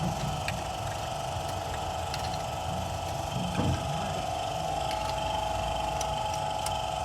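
Steady mechanical hum with a fine, fast ripple and a few faint clicks, holding even throughout.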